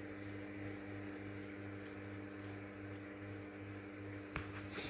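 Microwave oven running with a steady electrical hum and a faint pulsing low drone, heating a pebble. A couple of short sharp clicks come near the end.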